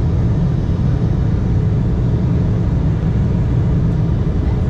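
Steady rumble inside the cabin of an Embraer E175 airliner, from its GE CF34 turbofan engines and the air around the fuselage, deep and even with no change.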